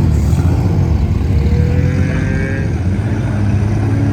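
Race car engines running in a loud, steady low drone, with an engine note rising about two seconds in as a car accelerates.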